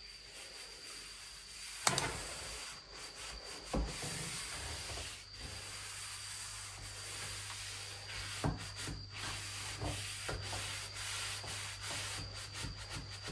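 Sanding a surface, a steady rasping rub broken by a few light knocks.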